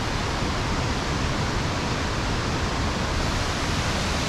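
El Chiflón waterfall pouring steadily, a dense, even rush of water.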